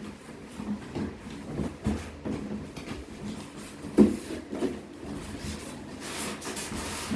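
Hands handling and fitting together parts of a computer monitor and its stand: irregular plastic knocks and clicks, a louder knock about four seconds in, then a rustle near the end.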